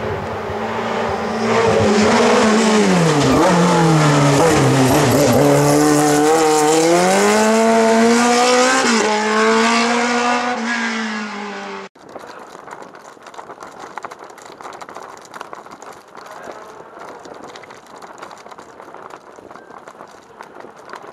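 Racing car engine running hard, its revs falling, climbing and falling again through the gears. About twelve seconds in the engine cuts off abruptly and a much quieter, crackly outdoor background noise follows.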